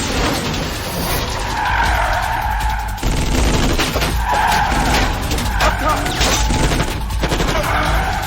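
Car-chase film sound: tyres screeching in repeated long squeals over a low engine rumble, with a scatter of sharp bangs.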